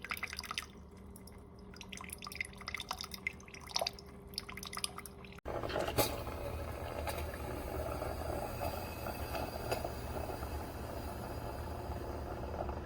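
Water dripping and spattering from a single-serve pod coffee maker that is leaking and spitting water. About five seconds in, the sound cuts off abruptly to a steady low hum with a hiss.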